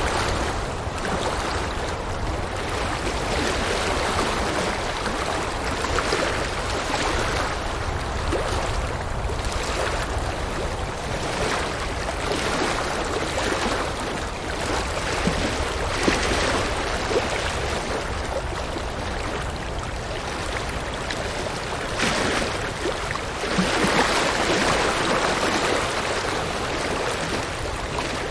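River water rushing and gurgling over rocks in a steady wash that swells and eases every few seconds.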